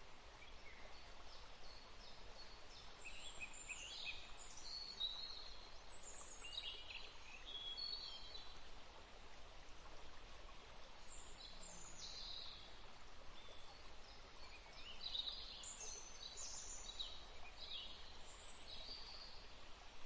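Small birds chirping and calling in short, high notes, in two busy spells, over a faint steady hiss of outdoor background noise.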